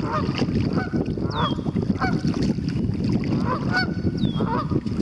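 Geese honking, short calls repeating every half second to second, over a steady low rushing noise, with a high whistle falling in pitch twice.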